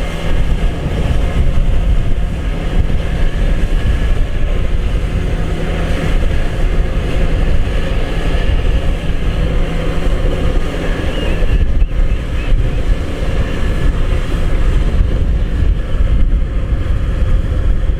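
Combine harvester running at work, a loud, steady engine rumble; a steady hum in it stops about two-thirds of the way through.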